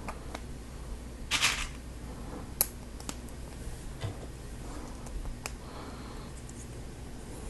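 Plastic Lego Technic pieces being handled and snapped together: scattered sharp clicks, with a brief louder rustle about a second and a half in, over a faint steady low hum.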